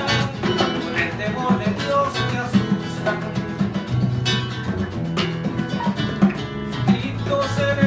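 Live band playing an instrumental passage between sung lines, led by steadily strummed acoustic guitar.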